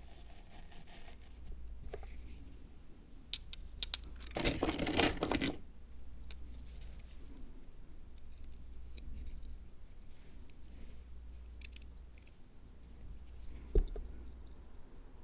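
Hands at work on a miniature zen garden diorama: a few sharp clicks, then a loud noisy stretch about a second long, like paper or material being torn, scattered small ticks, and a single knock near the end.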